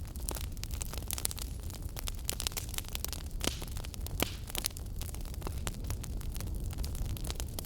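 Wood fire in a fireplace crackling: frequent sharp pops and snaps of varied loudness over a steady low rumble of the flames.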